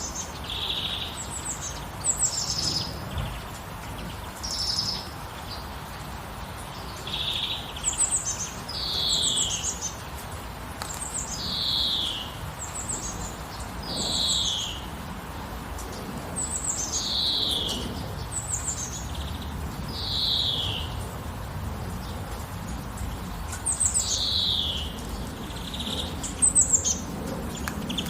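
Songbirds calling over and over, short notes that slide downward in pitch, some very high and some lower, every couple of seconds. Under them is a steady hiss of light rain.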